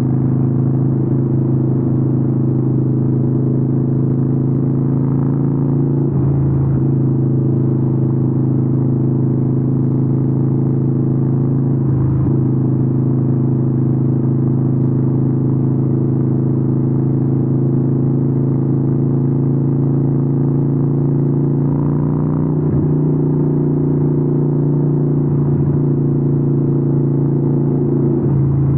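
Harley-Davidson 883N's air-cooled V-twin running through Vance & Hines exhausts at a steady cruise. The steady note breaks briefly four times, then carries on.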